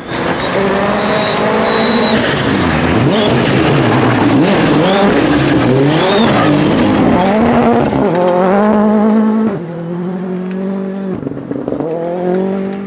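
Rally car engine running hard on a stage, its pitch climbing and dropping over and over through gear changes and lifts of the throttle. It starts loud at once and falls back somewhat after about nine and a half seconds.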